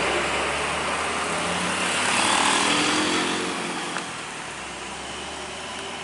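A motor vehicle passing on the road: engine and tyre noise swells about two seconds in, then fades, with one short click about four seconds in.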